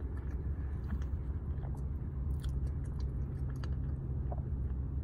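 Close-up mouth sounds of someone chewing and slurping creamy lobster pasta, with small wet clicks and smacks scattered throughout, over a steady low hum.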